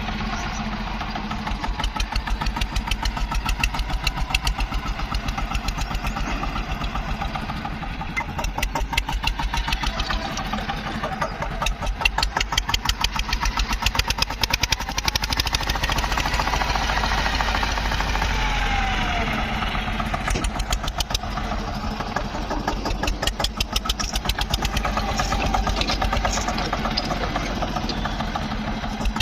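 Tractor diesel engine running with a fast, even knocking beat. About two-thirds of the way through, a tone glides downward.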